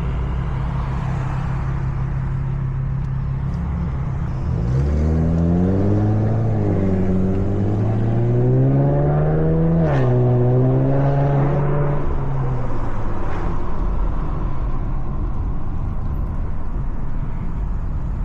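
Car engine running at low speed, then pulling away: from about four seconds in its note climbs steadily, drops once near the middle, climbs again and eases back to a low rumble a few seconds later.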